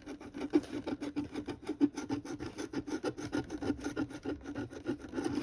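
Scratch-off lottery ticket being scratched, rapid scraping strokes of about seven or eight a second across the coating.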